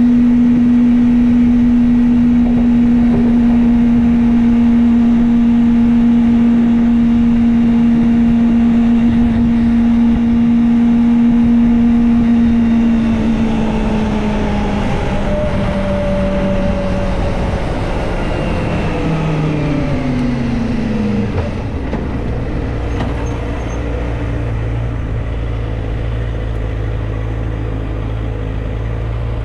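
Kawasaki Ninja ZX-25R's 250 cc inline-four engine running at a steady high pitch, then slowing with its pitch falling in several steps, and settling to a low idle about three quarters of the way through.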